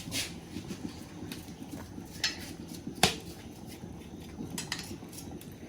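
Kitchen handling of a cut pumpkin: a knife and pumpkin pieces knocking on a cutting board, a few separate sharp knocks and clicks, the loudest about three seconds in, over a steady low background noise.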